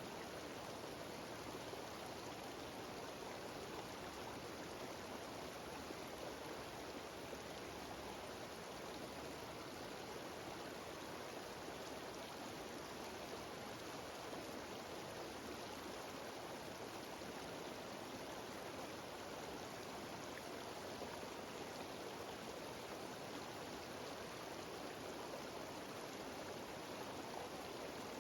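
Steady rush of a mountain stream tumbling down small waterfalls, an even noise with no breaks or changes.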